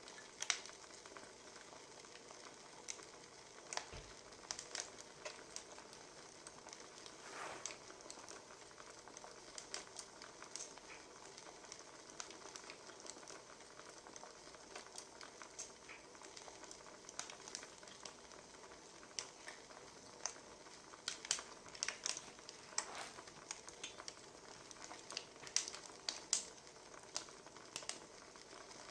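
Wood fire crackling: irregular sharp pops and snaps over a steady hiss of burning logs.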